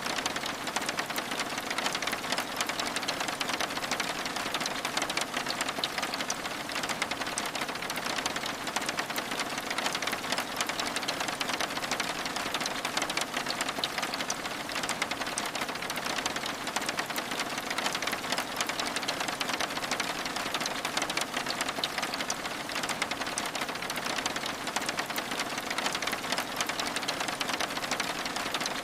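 Steady rain pattering on window glass: a dense, even hiss of many small drop ticks that goes on without a break.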